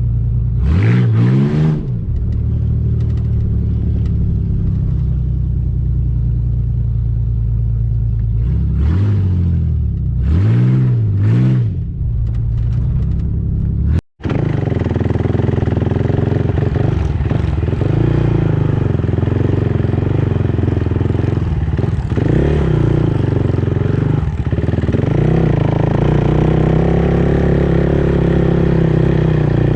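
Ford Explorer's engine running after sitting all winter, revved up and back down about a second in and again around ten seconds in. After a sudden break, an engine idles steadily with light clatter.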